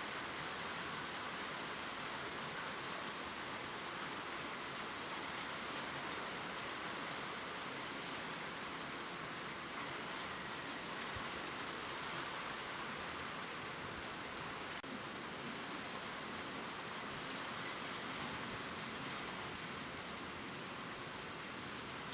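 Steady gentle rain, with fine drops ticking on leaves.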